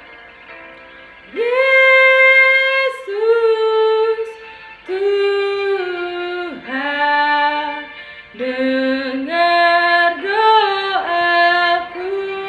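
A woman's voice singing a slow melody unaccompanied, in phrases of long held notes with short breaks between them.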